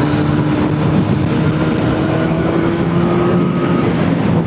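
Kawasaki ZX10R's inline-four engine running while the bike is ridden, its pitch rising slowly as it gently picks up revs, over a steady rushing noise.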